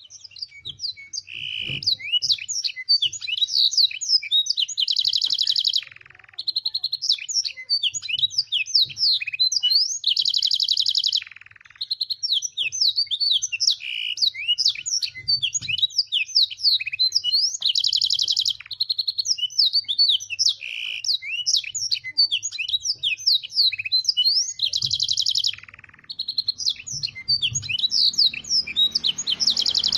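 Domestic canary singing a continuous fast song of rapid rising and falling chirps, broken every few seconds by a dense buzzing trill roll about a second long, in a tutor song filled with blackthroat phrases.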